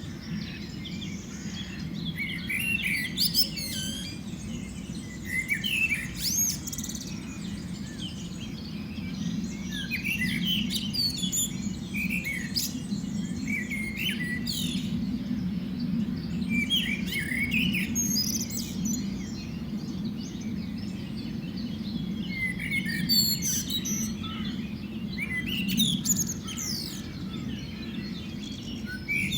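Several birds chirping and singing in short, quick calls throughout, over a steady low hum.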